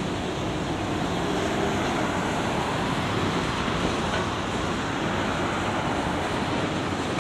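Freight cars of a long, slow-moving CSX freight train rolling past, a steady noise of steel wheels on the rails.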